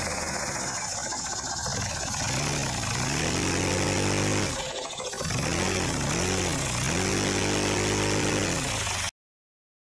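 LEGO vacuum engine running, driven by a vacuum cleaner: a steady rushing hiss with a pitched hum that rises and falls over and over. It cuts off suddenly near the end.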